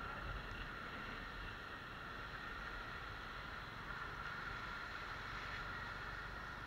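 Bajaj Pulsar NS150 motorcycle on the move: a steady rush of wind and road noise with a constant high hum over it.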